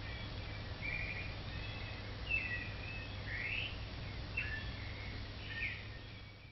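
Birds chirping, short calls and quick pitch glides coming every second or so, over a steady low hum.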